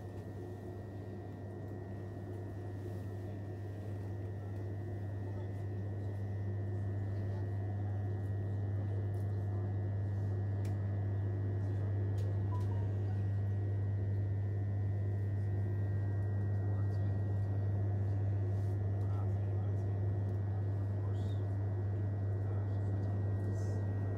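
Inside an electric London Overground train carriage as it pulls away and gets under way: a steady low hum with fainter higher tones and running noise, growing louder over the first several seconds and then holding steady.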